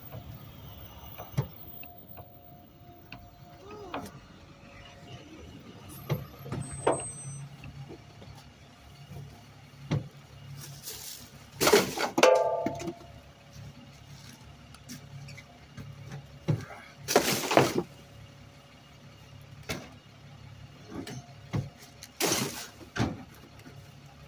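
Garbage truck running with a steady low hum, broken by scattered knocks and three loud short noisy bursts about twelve, seventeen and twenty-two seconds in; a brief squeal follows the first burst.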